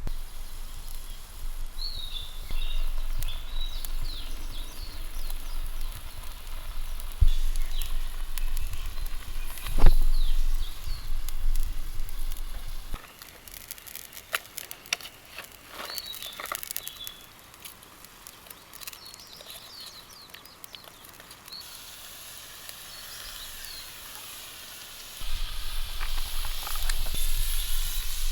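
Campfire crackling with scattered sharp pops, while small birds chirp at intervals. A steady hiss builds over the last few seconds.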